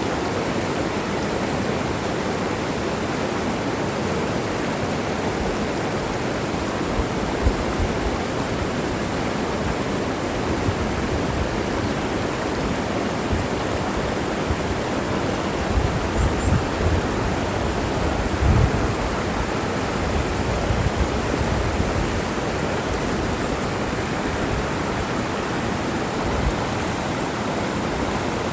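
Mountain stream rushing steadily. A few brief low rumbles of wind on the microphone come about two-thirds of the way through.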